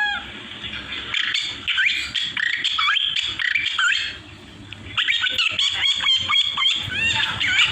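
A man imitating bird calls with his voice: a rapid string of chirps, squawks and short rising and falling whistles.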